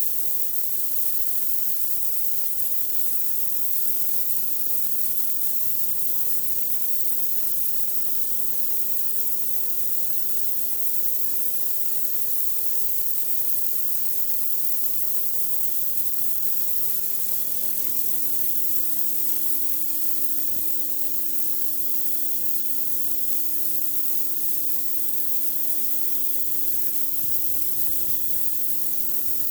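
Pressure washer spraying a driveway: a steady high hiss of water jetting onto the surface over the constant hum of the machine. The hum drops slightly in pitch about halfway through.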